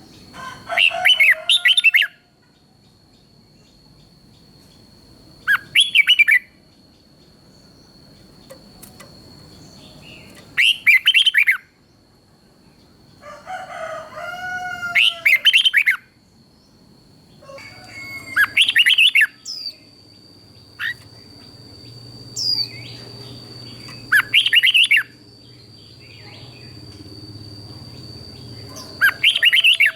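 Red-whiskered bulbul singing: short, loud phrases of rich whistled notes, repeated every few seconds.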